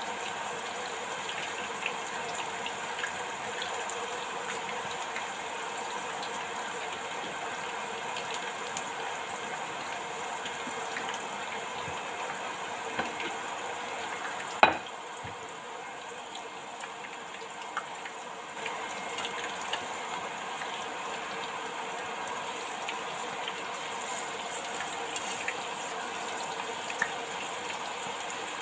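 Batter-coated beetroot leaves deep-frying in hot oil: a steady sizzle with small crackles, and a single sharp knock about halfway through.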